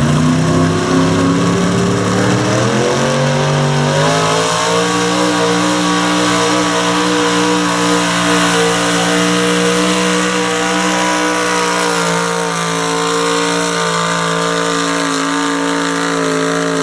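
1969 Chevy two-wheel-drive super stock pickup's engine at full throttle pulling the sled. The revs climb over the first four or five seconds, then hold high and steady.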